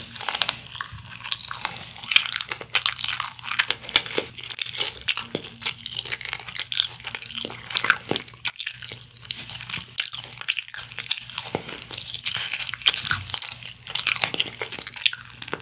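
Close-up crunching and chewing of crispy honey-glazed fried chicken, with quick sharp crunches one after another and a brief lull about halfway through.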